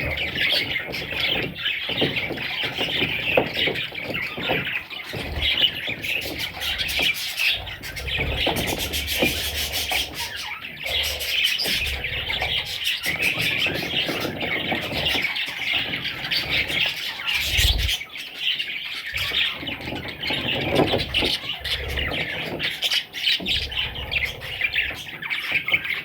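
A group of parrots chattering and squawking continuously, with a few low bumps, the strongest about eighteen seconds in.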